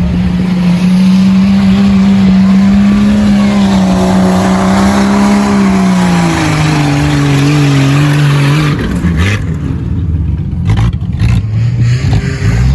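An off-road vehicle's engine held at steady high revs, its pitch dropping about six seconds in; near nine seconds the steady note breaks off into uneven knocks and thumps before the engine comes back up near the end.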